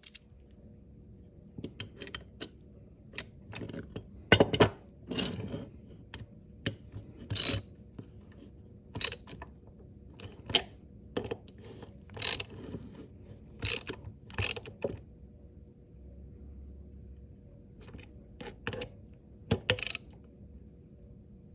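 Hand tools at work on a motorcycle's ignition switch mounting: irregular sharp metallic clicks and clanks, some coming in short quick runs, spaced a second or two apart.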